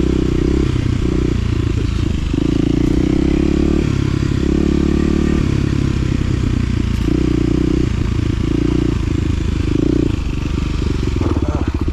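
Side-by-side UTV engine running on a rough trail, its pitch stepping up and down as the throttle changes. Near the end it drops to slow, even firing pulses.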